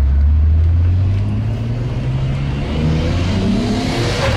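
Sports car engine heard from inside the cabin, pulling under acceleration: the low engine note climbs steadily in pitch with a rising hiss over the last couple of seconds, then drops off sharply near the end as the driver comes off the throttle or shifts.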